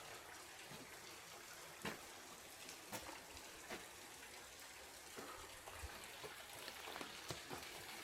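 Faint water dripping and trickling off rock, an even hiss with scattered sharp drips or ticks at irregular intervals.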